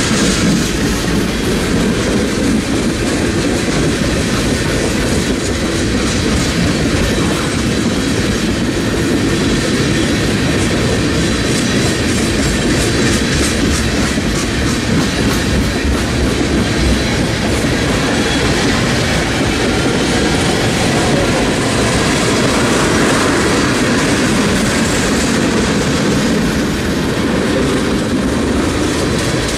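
Norfolk Southern freight train of tank cars rolling steadily past: a continuous rumble of steel wheels on the rails, with the wheels clicking over the rail joints.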